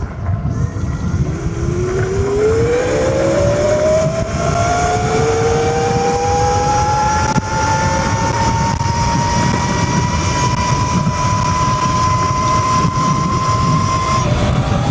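XPRO Drax X electric dirt bike's motor whining under a full-throttle pull, driven by a Fatdriver 72680 controller at 550 amps phase current and 250 amps battery current. The whine climbs steadily in pitch for about eight seconds, levels off at top speed, and drops away shortly before the end, over a heavy low rush of wind noise.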